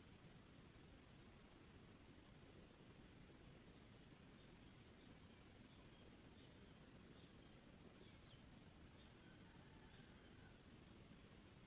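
Steady high-pitched chorus of field insects, crickets by the sound of it, with a few faint chirps in the middle.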